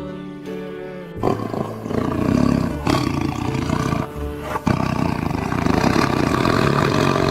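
Tiger roaring in several long, rough roars, starting about a second in, over background music.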